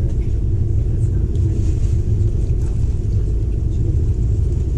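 Steady low rumble of a moving intercity train, heard from inside the passenger coach: wheels and running gear on the rails carried through the car body.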